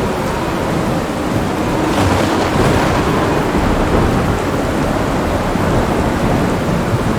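Thunderstorm: steady heavy rain with rolling thunder rumbling underneath, and a short crackle of thunder about two seconds in.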